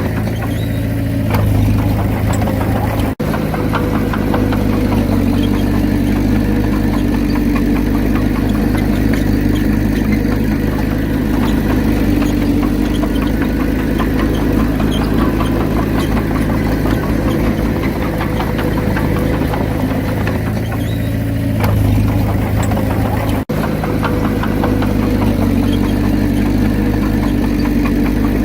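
Komatsu D31P bulldozer's diesel engine running steadily under working load, its note shifting twice as the load changes. The sound cuts out for an instant twice, about three seconds in and about five seconds before the end.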